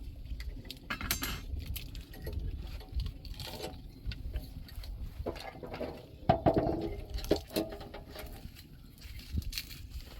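Scattered light clinks and knocks of kitchenware being handled, loudest about six seconds in.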